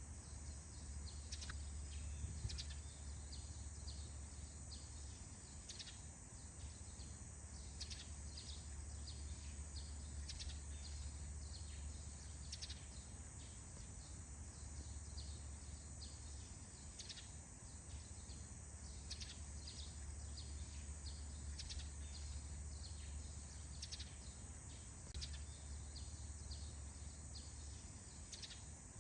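Forest birds chirping in short, scattered calls over a steady high hiss, with a low rumble that comes and goes.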